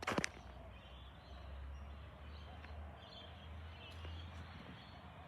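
Faint, steady low rumble of a bulk waste truck's engine, with a sharp knock right at the start.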